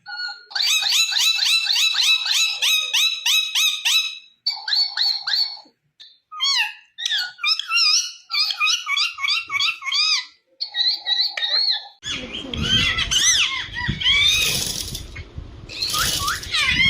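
Indian ringneck parakeet calling: a rapid string of sharp squawks at about four a second for the first few seconds, then broken calls, and from about twelve seconds on more calls over a rough rumbling background noise.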